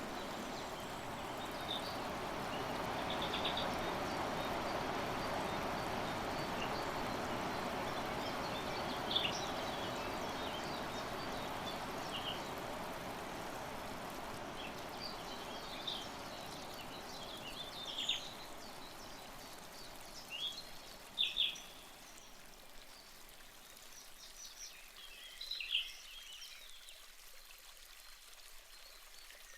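Running water, steady at first and fading gradually over the second half, with short high bird chirps scattered through it, more of them near the end.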